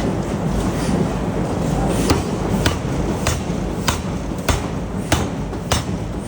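Steady low rumble of forge-shop machinery. From about two seconds in, regular sharp hammer blows on metal come at roughly one and a half a second.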